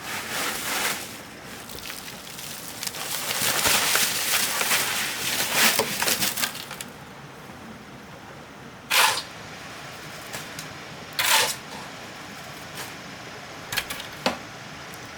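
A hand tool scraping through a sand and cement mix. There is a long gritty scrape in the first seconds, then two short scrapes a couple of seconds apart, and a few light clicks near the end.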